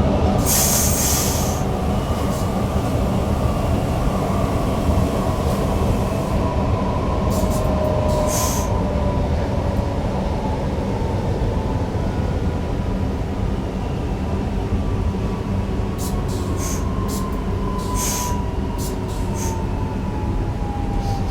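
Newag Impuls EN63 electric multiple unit running, heard from the driver's cab: a steady rumble of running noise with a drive whine that slowly falls in pitch as the train slows, typical of a stopping train's approach to a station. Brief high squeals come now and then, most of them in the second half.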